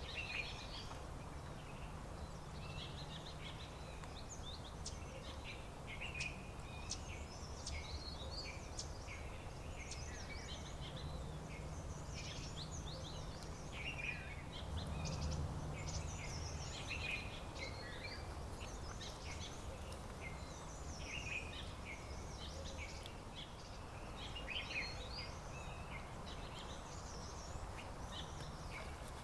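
Many birds chirping and calling at once, a dense chorus of short, overlapping calls, over a steady low rumble.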